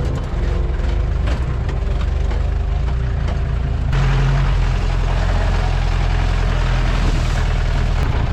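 Jeep engine running as it drives a rough off-road track. The sound turns abruptly louder and harsher about four seconds in.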